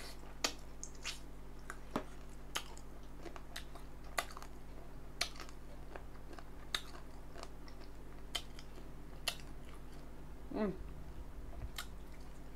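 A person eating close to the microphone: quiet chewing broken by sharp, irregular mouth clicks and smacks roughly once a second. A brief hum comes near the end.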